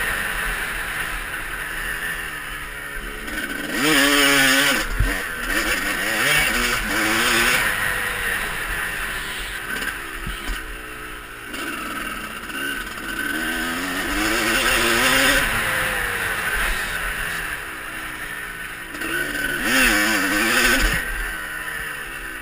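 Motocross bikes running round a dirt track, engine pitch rising and falling as the riders open and shut the throttle, with a louder bike passing close about four seconds in and again near twenty seconds.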